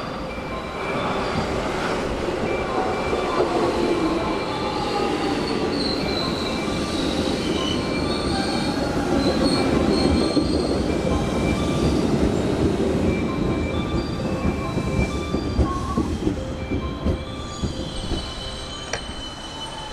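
JR West 221 series / 223 series electric commuter train running into the platform and slowing. Its wheels rumble on the rails under high, steady squealing tones, a few sharp clicks come near the end, and the rumble eases as it slows toward a stop.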